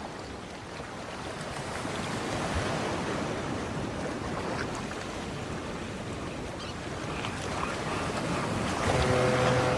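Rushing water and surf, a steady roaring wash of floodwater. A low horn-like tone sounds near the end.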